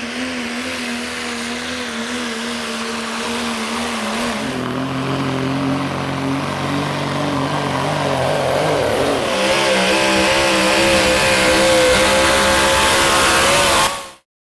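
Pulling trucks' engines running hard at high, fairly steady revs, in three clips cut together, changing about four and about nine seconds in; the middle clip carries a thin high whistle over the engine. The loudness builds slowly across the clips.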